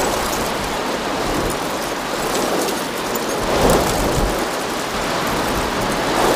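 Steady rushing noise of heavy rain and floodwater, with a low rumble about four seconds in.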